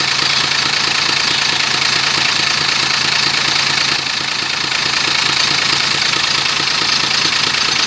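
Rebuilt diesel truck engine idling steadily on its first run after a cylinder-head repair for coolant getting into the engine oil.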